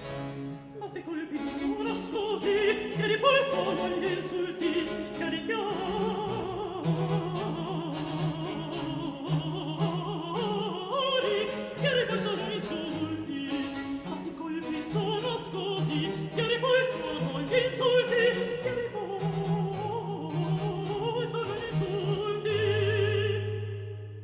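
Operatic singing with orchestral accompaniment, a wavering sung line over strings. It begins abruptly and fades out near the end.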